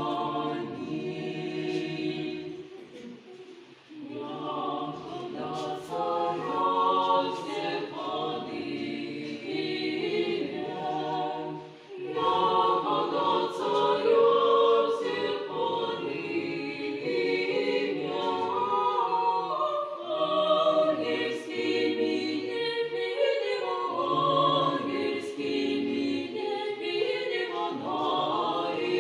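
A dog howling together with people singing along, several voices overlapping in long, wavering notes, with short breaks about 3 seconds in and about 12 seconds in.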